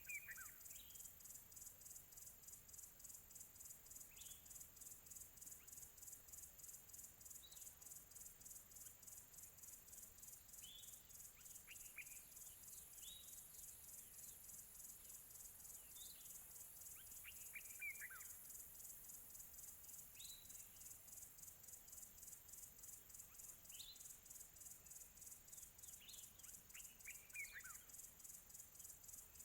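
Faint, steady high-pitched insect trilling with an even rapid pulse. Small birds give short, downward-sliding chirps every few seconds over it.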